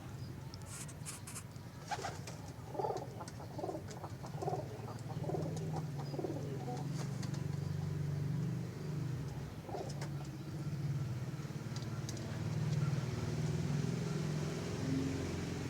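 Domestic pigeons cooing, a low pulsing coo that goes on throughout, with a few sharp clicks in the first half.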